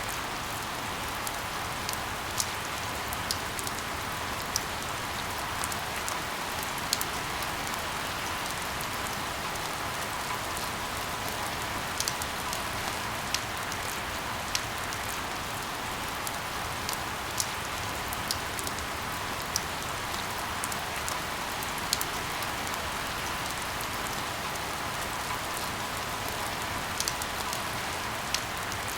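Steady rain falling, an even hiss with scattered sharp drop ticks, mixed with white noise.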